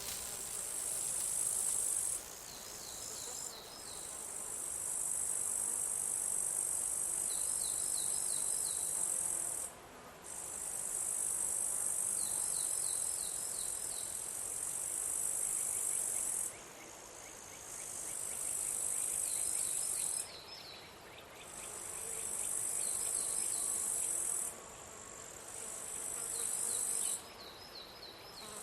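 Singing insects: a very high-pitched continuous trill comes in bouts of a few seconds, each cutting off suddenly, about six times. Short quick series of about five lower chirps from a second insect sound in and between the bouts.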